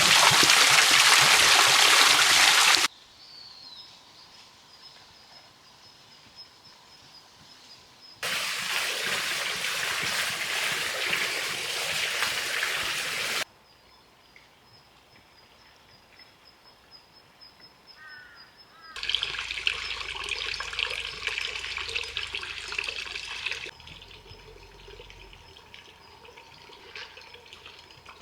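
Water running and splashing in three separate stretches, each starting and stopping abruptly, with quieter gaps between them.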